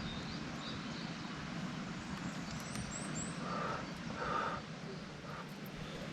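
Birds chirping: a few short high chirps, then three quick rising chirps about three seconds in, over a steady low rumble.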